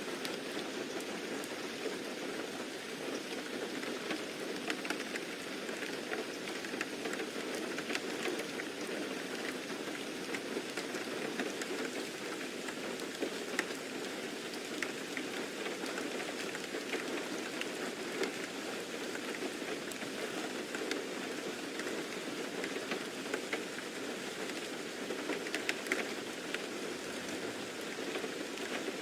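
Steady rain ambience: an even wash of rain with many small drop ticks scattered throughout.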